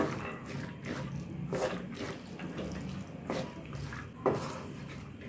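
Soaked chana dal frying in oil and masala in a metal pan, a steady soft sizzle under four scraping strokes of a stirring spoon. The dal is being fried in the spice base before water is added.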